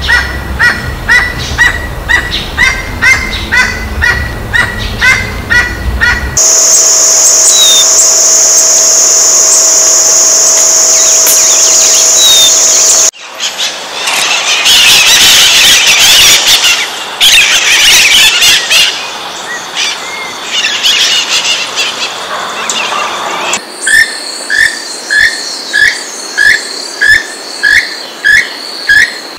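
Separate bird recordings one after another. First, Southern Emerald Toucanet calls, a steady series of short notes about two a second. Then a steady high-pitched drone for several seconds, followed by Scarlet-fronted Parakeets squawking and screeching in a dense chatter. Near the end, a Keel-billed Toucan gives repeated calls, about two a second.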